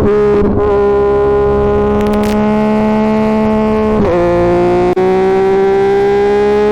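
Yamaha MT-09's inline three-cylinder engine running hard through an aftermarket SC Projects CR-T exhaust on the move. The note holds fairly steady, dips around four seconds in, cuts out for an instant near five seconds, then climbs steadily as the bike accelerates again.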